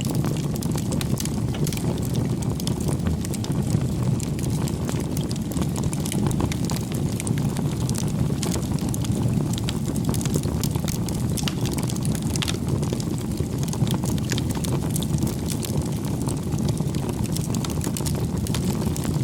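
Campfire burning steadily: a low rumble of flames with frequent, irregular sharp crackles and pops of burning wood.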